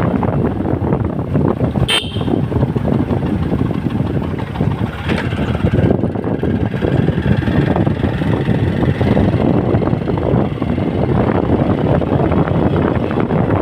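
Steady road-vehicle noise heard while riding along a road, with a short sharp click about two seconds in.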